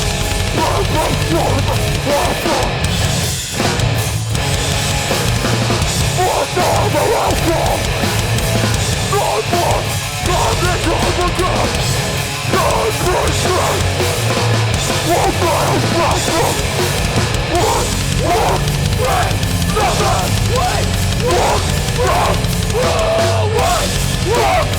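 Live metallic hardcore band playing at full volume: heavy distorted guitars, bass and pounding drums, with a couple of brief breaks in the riffing.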